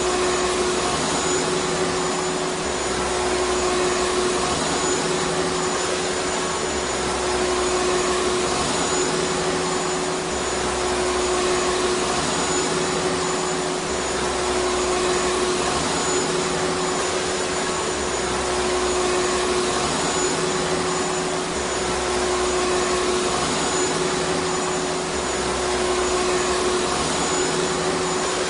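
Vacuum cleaner running steadily: an even rushing noise over a steady hum. A low rumble underneath comes and goes every few seconds.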